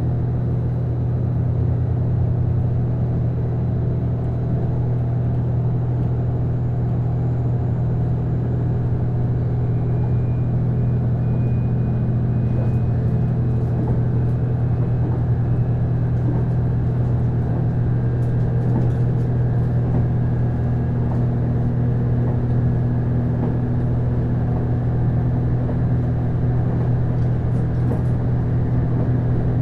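Steady low drone inside a JR East Series HB-E210 hybrid diesel railcar, carried by its Komatsu DMF15HZB-G diesel engine, with a faint tone that slowly rises in pitch in the second half.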